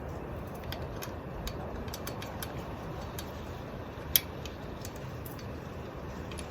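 Scattered light clicks and one sharper click about four seconds in, over a steady low hum.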